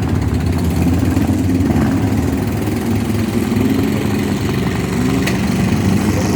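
Demolition derby cars' engines running and revving, with the engine note rising and falling.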